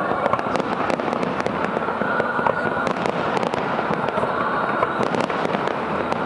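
Fireworks going off in quick succession: a dense, continuous crackle of many small bangs.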